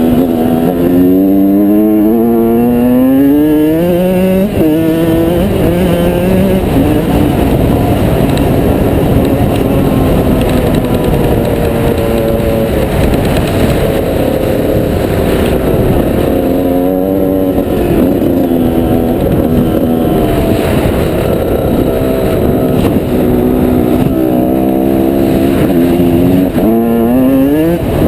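Off-road engine running hard, its pitch rising and falling as the throttle is worked, with a steady rev-up in the first few seconds and another near the end, over rough rumbling noise.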